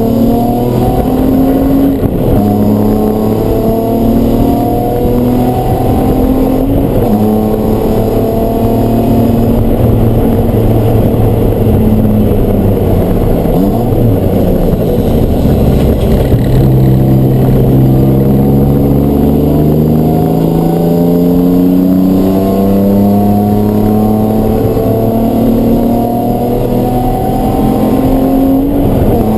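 Race car engine at full load, its pitch climbing and dropping back at each upshift; about halfway through it falls away as the car slows, then climbs through the gears again.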